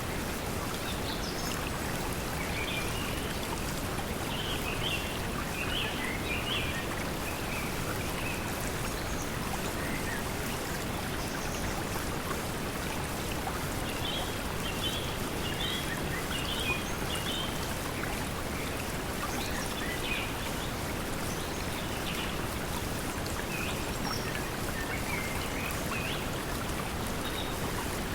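Steady pink noise blended with flowing stream water, with small birds chirping now and then in short clusters.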